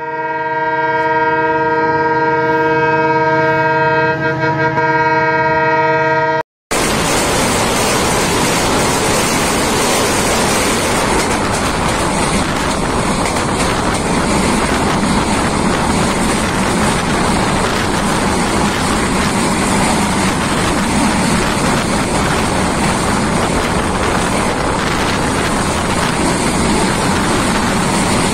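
A long, steady multi-tone train horn blast, which stops abruptly about six seconds in. Then comes the steady rush of wind and wheel-on-rail noise of the Tangail Commuter passenger train under way, taken from the side of a moving coach.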